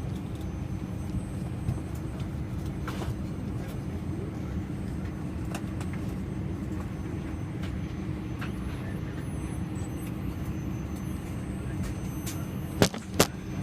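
Steady cabin hum inside an Airbus A320 airliner, a constant low drone of aircraft air and systems noise. Two sharp clicks come near the end.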